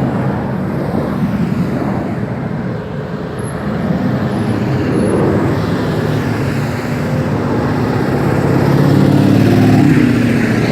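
Engine noise: a steady low drone that swells louder near the end.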